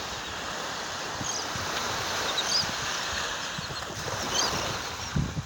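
Surf washing on a beach with wind buffeting the microphone. A few faint, short, high bird calls come through now and then.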